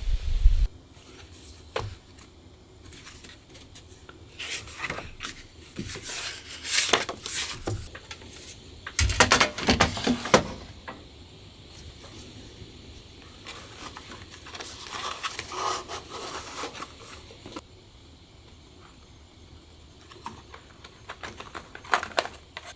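Intermittent rubbing and scraping of objects being handled, with occasional light knocks, coming in several short spells.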